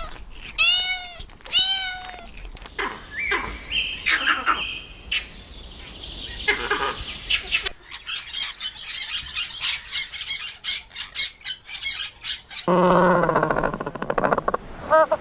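A run of different animal calls, one after another. It opens with short, repeated arched calls, followed by chirping calls. Next comes a fast series of clicking chirps, and about 13 seconds in a loud, steady, low buzzing call begins.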